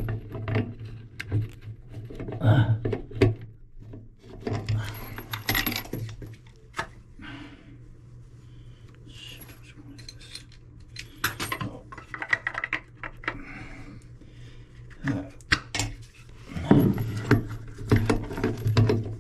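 Small metal faucet parts and hand tools clinking and rattling as a sink faucet is reassembled, in irregular clicks and clatters with a quieter stretch in the middle.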